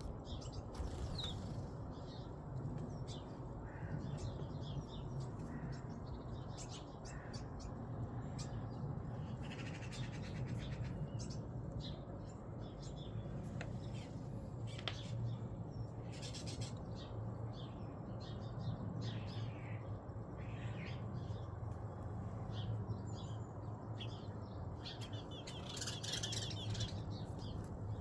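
Birds chirping and calling repeatedly, in short high notes that come thicker near the end, over a steady low hum.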